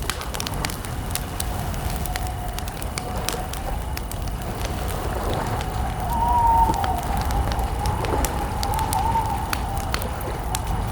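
Campfire crackling, with scattered sharp snaps and pops of burning wood over a low rumble. A wavering, whistle-like mid-pitched tone comes in about two seconds in and swells louder about six seconds in.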